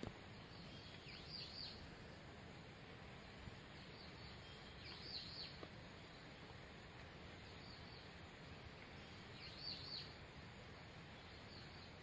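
A bird calls three times in short clusters of high, falling chirps: about a second in, around five seconds in, and near ten seconds. The calls sit over a faint, steady background hiss of the forest.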